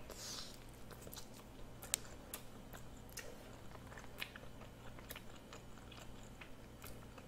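Faint mouth sounds of a person biting into and chewing a dumpling: a short hiss right at the bite, then scattered small wet clicks and smacks.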